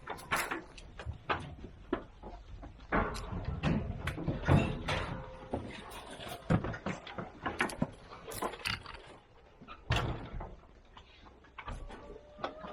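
Split firewood being handled and thrown down, wood knocking on wood in irregular thumps and clacks.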